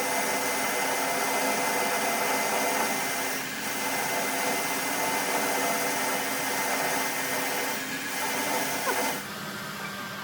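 Electric power tool running steadily, a whine over a noisy hiss, dropping in level about nine seconds in.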